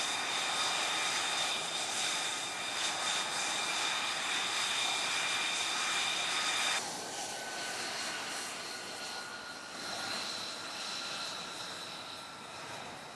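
F-35B Lightning II jet engine running with a steady high whine over a rushing hiss. About seven seconds in the sound cuts abruptly to a quieter jet whine at a different pitch.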